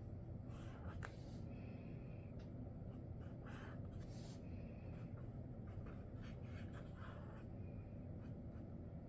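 Sharpie Creative Marker tip scratching across the drawing surface in a series of short, quick drawing strokes, with a faint steady low hum underneath.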